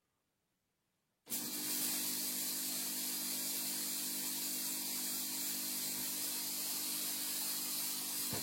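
A 400-watt mini fog machine starts up about a second in: its pump motor buzzes steadily and fog hisses out of the nozzle at an even level, showing the pump motor that had refused to run now works.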